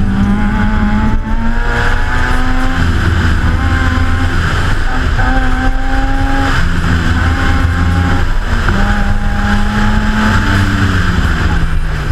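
2004 Mazda RX-8's two-rotor Renesis rotary engine driven hard, its pitch holding for a second or two, then rising and falling in steps as the throttle is worked, over steady wind and tyre noise.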